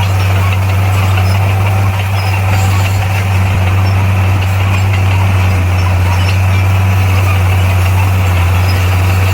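Bulldozer's diesel engine running at a steady, unchanging speed: a loud, low, even drone.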